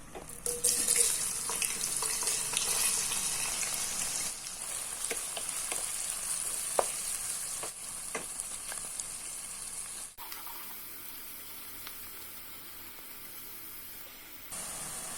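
Food frying in hot oil in a pan, a steady sizzle with occasional clinks and scrapes of a spoon stirring. The sizzle drops abruptly to a quieter level about ten seconds in and jumps back up near the end.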